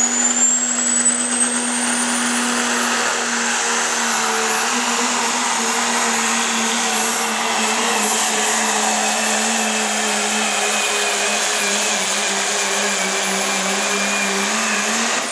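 Diesel pickup truck in the 3.0 diesel pulling class, limited to a 3.0-inch turbocharger, running flat out under load while pulling the sled. The engine holds a steady pitch, and a high turbo whistle rises over the first few seconds, then holds.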